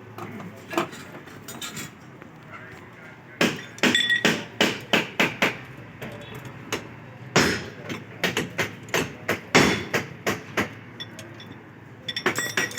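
Hammer striking metal in two runs of quick blows, about four a second, some ringing, with a short flurry of taps near the end. The hammering is part of adjusting a car door that does not close.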